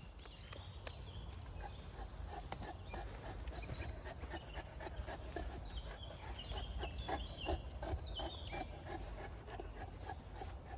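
Boerboel dog panting in a rapid, steady rhythm, with wind rumbling on the microphone and a few high chirps in the middle.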